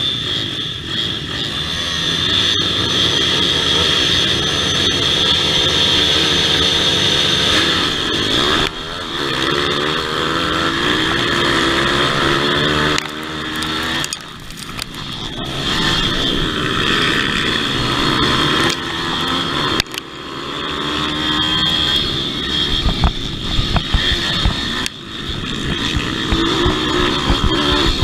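Pit bike engines revving hard on a motocross track, the pitch rising and falling with throttle and gear changes and easing off briefly several times.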